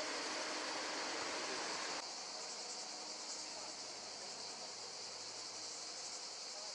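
Steady high-pitched chorus of summer insects chirring without a break; the lower background drops a little about two seconds in.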